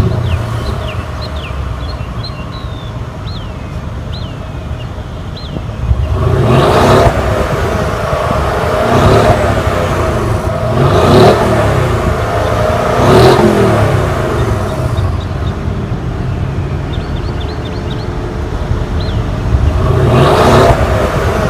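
2014 Mercedes-Benz ML63 AMG's twin-turbo V8 idling through its exhaust and revved up and back down about five times, in blips a couple of seconds apart with a longer pause before the last.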